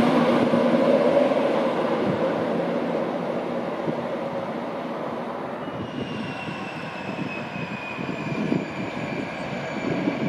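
InterCity 225 train with its Class 91 electric locomotive running past and away, its rail and wheel noise fading over the first few seconds. Then a Class 57 diesel locomotive approaching slowly, its engine rumbling under a high whine that sinks slightly in pitch.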